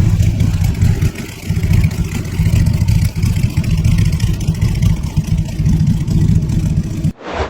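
Motorcycle engine running and revving, its loudness rising and falling, cutting off abruptly near the end.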